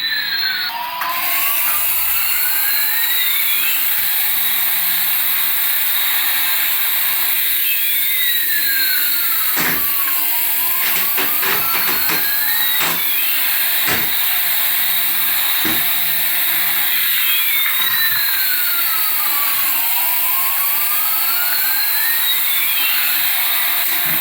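Battery-powered toy running with a steady electric motor whir. Its electronic sound effect plays a tone that sweeps up and down, about three times, roughly every ten seconds, with scattered clicks.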